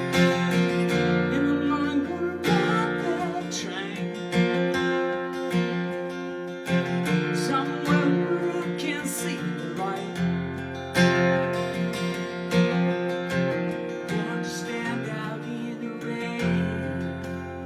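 Acoustic guitar strummed in a steady rhythm, an instrumental passage of a song with the chords changing every few seconds.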